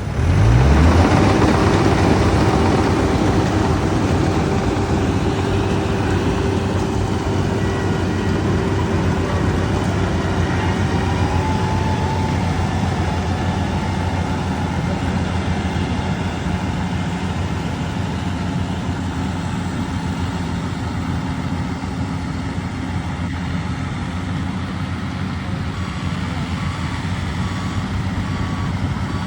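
Corn harvester's engine revving up sharply about half a second in, then running steadily at high revs.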